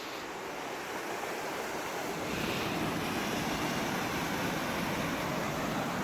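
Steady rushing of flowing mountain-stream water, growing louder and deeper about two seconds in.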